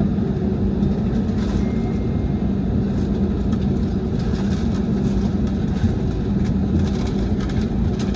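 Steady vehicle-interior running noise: a low rumble with a constant hum and scattered faint clicks and rattles.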